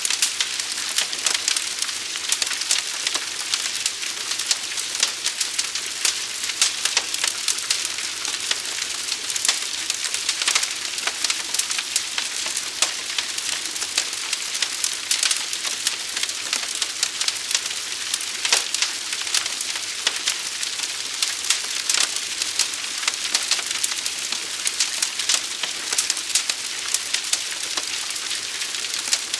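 Burning wood crackling and popping in a dense, continuous stream of sharp snaps over a steady hiss.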